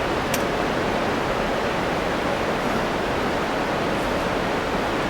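Waterfall rushing close by: a loud, steady roar of falling water, with one faint click shortly after the start.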